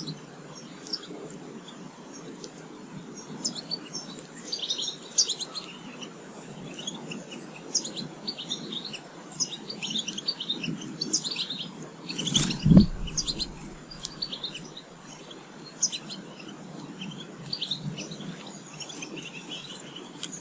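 Small garden birds chirping and twittering in quick, overlapping short calls over a low background rumble, with one brief loud thump about twelve seconds in.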